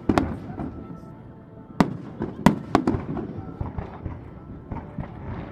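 Fireworks display: aerial shells bursting with sharp bangs, the loudest in a cluster about two to three seconds in, over a continuous crackle of smaller reports.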